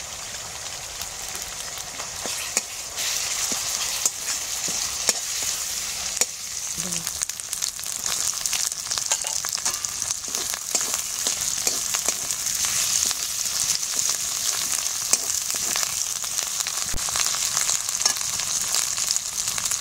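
Onions, ginger paste and chopped tomatoes sizzling steadily in hot oil in a metal kadai. A metal spatula clicks and scrapes against the pan as it stirs. The sizzle grows louder about three seconds in.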